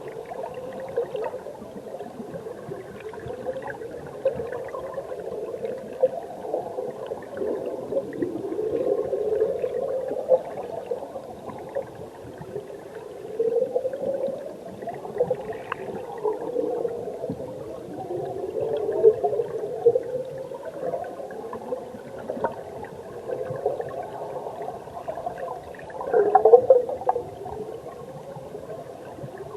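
Mountain stream recorded underwater: flowing water and bubbles churning and gurgling, muffled, with wavering pitched swirls that rise and fall every second or two and a louder surge near the end.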